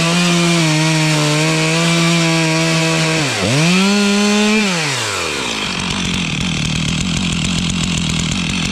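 Stihl chainsaw at full throttle cutting through wood. About three seconds in the revs dip briefly and recover, then from about five seconds the engine winds down and runs at idle with an even chugging.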